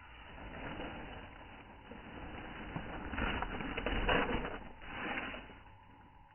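Rustling, crackling noise that swells to its loudest about three to four seconds in, then fades to a faint steady hum near the end.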